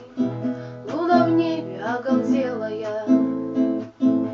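Acoustic guitar strummed as accompaniment to a Russian folk-style song, with a voice holding and bending the last sung notes in the first half. Near the end the guitar strums on alone.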